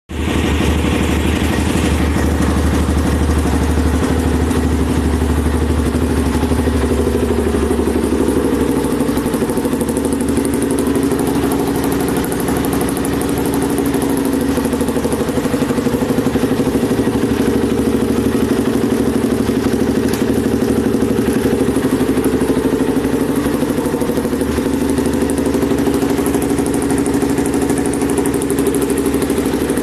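2006 Suzuki LT-Z400 ATV's single-cylinder four-stroke engine running at a steady idle.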